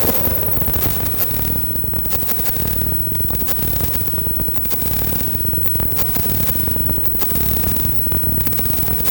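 Noisy, glitchy electronic music from a hardware synthesizer and sequencer jam: dense crackling clicks and static over a low rumbling drone, swelling and thinning in a repeating cycle about every second and a quarter.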